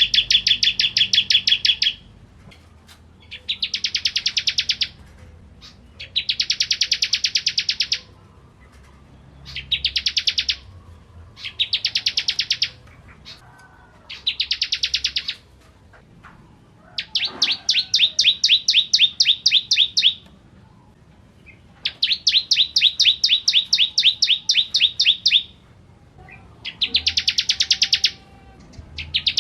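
Bar-winged prinia (ciblek kristal) singing: about ten loud, high phrases, each a rapid trill of evenly repeated notes lasting one to three seconds, separated by short pauses.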